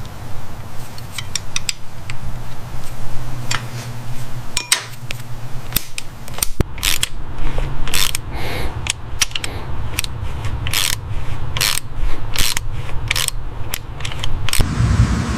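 Irregular mechanical clicks and clatter over a steady low hum. In the second half the clicks settle into a rough rhythm of about two a second.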